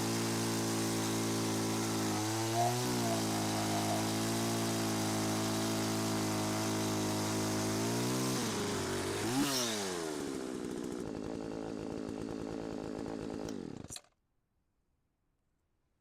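McCulloch Mac 3516 two-stroke chainsaw, on an aftermarket carburetor, running steadily after being brought back from the dead. Near the end it revs briefly, settles to a lower idle, and then stops suddenly, a couple of seconds before the end.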